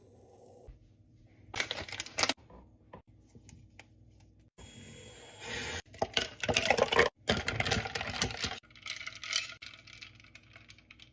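Small hard objects being handled, clinking and clattering in several separate bursts with quieter gaps between.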